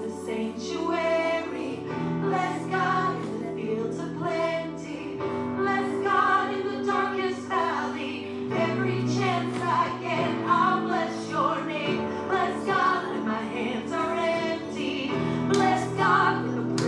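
Voices singing a slow church hymn together over held chords whose bass note changes every couple of seconds.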